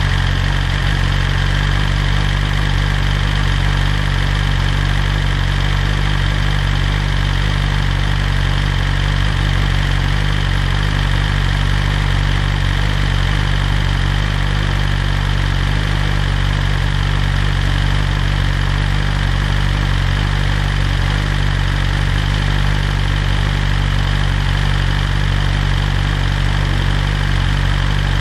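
2020 BMW S1000RR's inline-four engine idling steadily through a full Akrapovic exhaust, with no revs.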